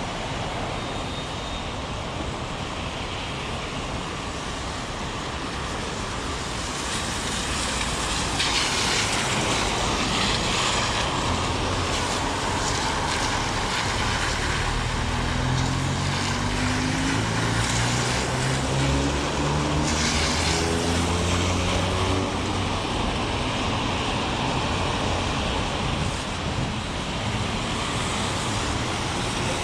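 Heavy rain falling on a city street with traffic noise, growing louder several seconds in. About halfway through, a motor vehicle accelerates past, its engine note rising in steps.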